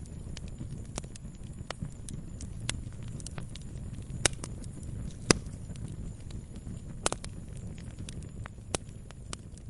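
Wood fire burning in a fireplace: a low steady rumble of flames with irregular crackles and sharp pops, several louder snaps scattered through the middle.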